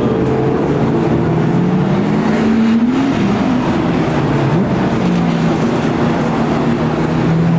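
Supercar engines running at low revs, the pitch rising briefly about two to three seconds in and dipping once near the middle.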